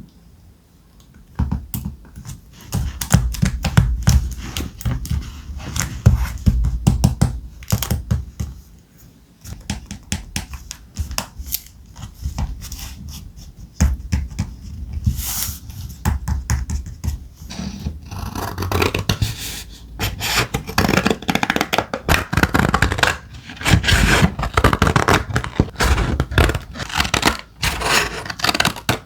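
Thick paper being handled up close: rustling, sliding and scraping with many small taps and clicks, busier in the second half.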